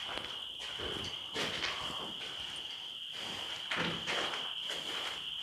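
A steady night chorus of crickets, a constant high trill, with a few footsteps on a concrete floor scuffing over it.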